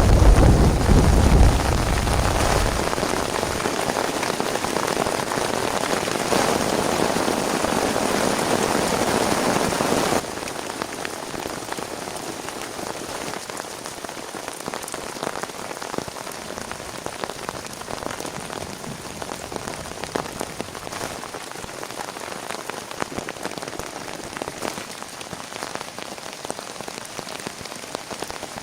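Heavy rain falling steadily, with the low rumble of thunder dying away in the first couple of seconds. About a third of the way in the rain suddenly drops to a lighter fall, with individual drops ticking distinctly.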